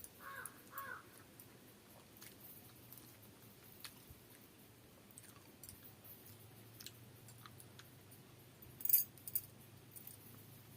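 Close-up eating sounds of rice and curry eaten by hand: soft chewing with scattered small mouth clicks and smacks, and a sharper burst of wet clicks about nine seconds in.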